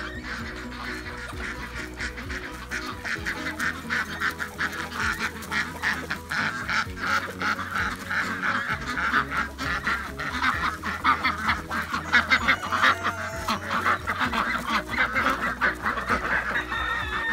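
Flock of white domestic ducks quacking busily, many calls overlapping and more densely after a few seconds, with background music underneath.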